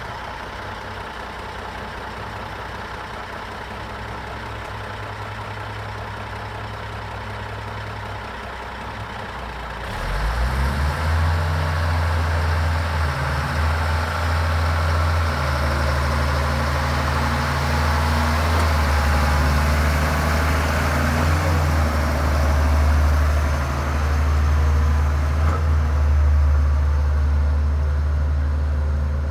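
Caterpillar rock truck's diesel engine idling steadily, then about ten seconds in it gets much louder and runs harder at a steady level.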